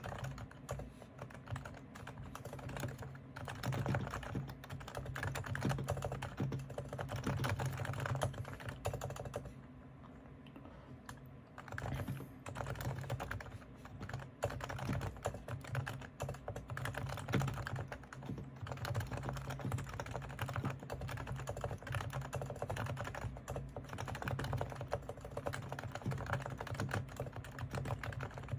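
Realforce R3 silent-model keyboard with Topre electrostatic capacitive switches being typed on continuously, a dense run of soft keystrokes. The typing eases off for about two seconds roughly ten seconds in, then picks up again.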